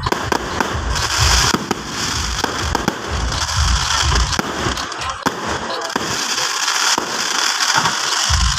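Aerial fireworks display: a steady stream of sharp cracks and dense crackling, with deep booms from bursting shells through the first half and again near the end.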